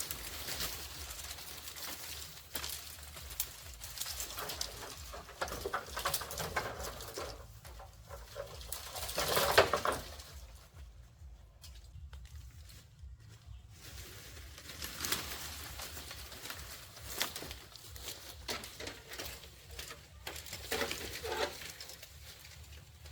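Birds calling, with scattered clicks and handling noises, and one louder burst of noise about nine and a half seconds in.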